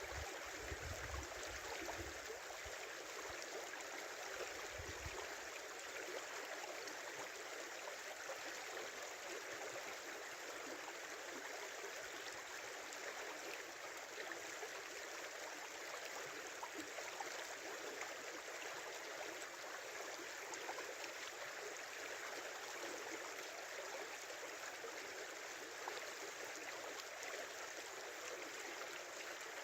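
Small river flowing, a steady rush and babble of water. A few brief low rumbles come in the first five seconds.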